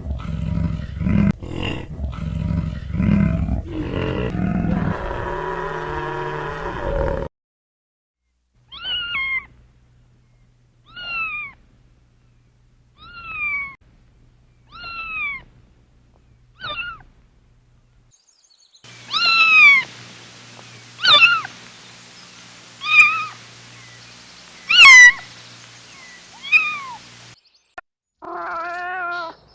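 Kittens meowing: about ten separate high meows, each falling in pitch, spaced roughly two seconds apart in two runs, the second run louder. Before them comes a stretch of low, jumbled noise lasting about seven seconds.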